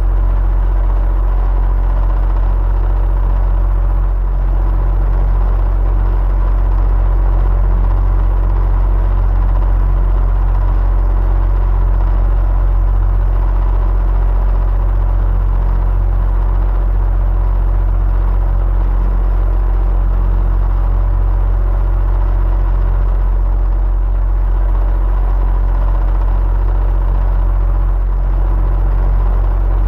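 Electric fan running steadily: a deep, even hum with faint steady tones above it.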